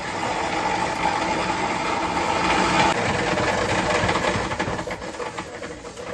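A power tool running steadily in a car body workshop, then tailing off after about five seconds.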